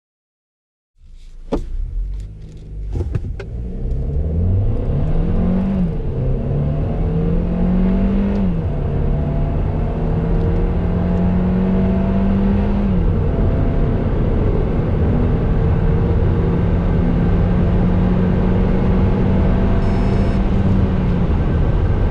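Kia Ceed 1.5 T-GDi turbocharged four-cylinder petrol engine under full-throttle acceleration from a standstill. The engine note climbs and drops back at three quick upshifts of the 7-speed dual-clutch gearbox, about six, eight and a half and thirteen seconds in, then pulls long and steady in a higher gear over road noise. A few sharp clicks come just before the launch.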